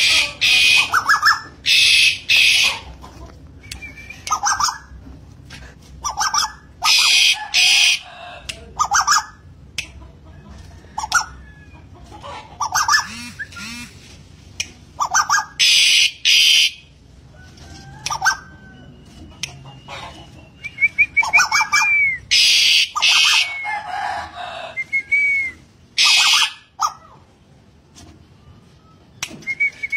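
Calls of the bird known in Java as tuwu or wik-wik: repeated harsh, hissing call bursts about half a second long, often in pairs, mixed with short rising notes and a few curved whistles.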